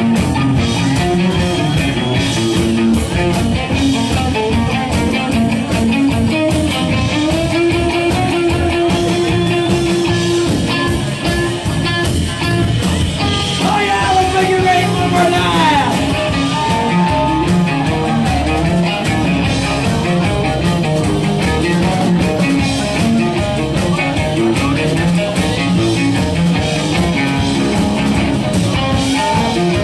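Loud rock music played with a picked cello, with held notes and sliding pitches about halfway through.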